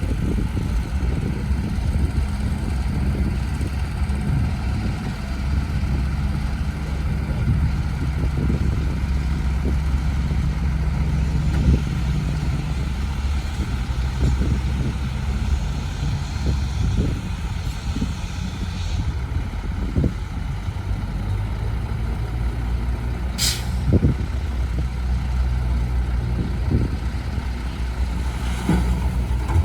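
Heavy dump truck's diesel engine running steadily, with scattered knocks. A short, sharp air-brake hiss comes about two-thirds of the way through, and a fainter one near the end.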